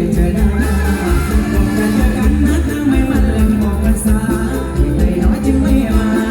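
Live mor lam band playing amplified music with a steady, heavy bass beat and singing.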